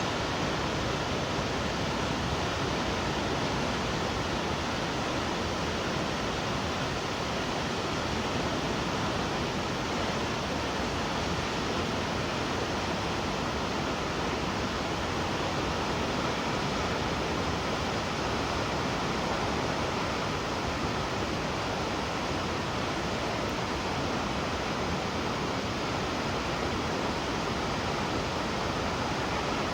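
Shomyo Falls, a 350-metre waterfall, roaring as a steady, unbroken rush of falling water.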